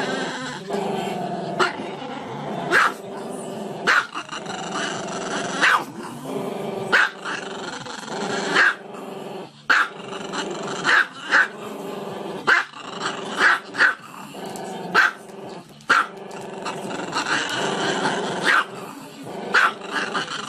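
Small long-haired dog growling and grumbling steadily, broken by sharp barks about once a second.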